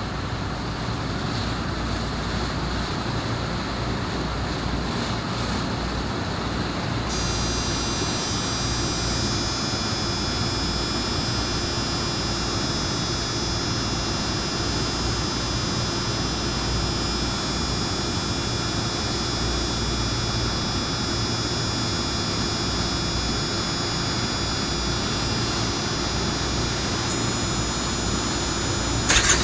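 Thermo King refrigeration unit and vehicle running with a steady low hum and rushing noise; about seven seconds in, a set of high steady whining tones comes on as the unit kicks in to cool toward its +2 °C set point. Near the end a louder engine-like sound starts abruptly.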